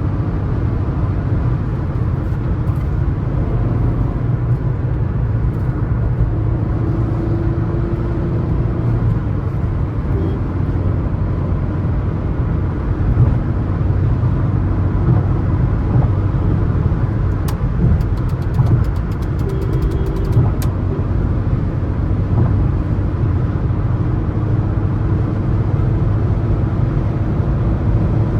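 Suzuki S-Cross with the 1.3-litre DDiS diesel at highway speed: a steady low drone of engine and road noise. A short run of faint ticks comes about two-thirds of the way through.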